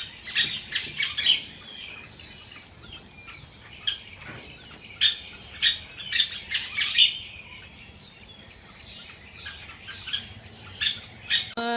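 Small birds chirping in short, irregular high chirps, busier in the middle, over a continuous thin high-pitched drone.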